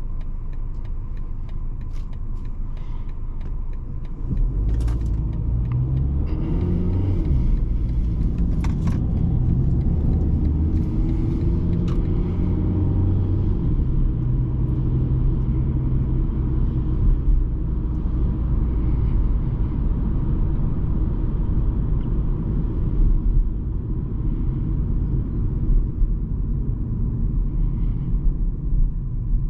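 A BMW 220d's four-cylinder diesel engine and road noise from a moving car. About four seconds in it gets louder and the engine note rises as the car accelerates, then settles into a steady low rumble.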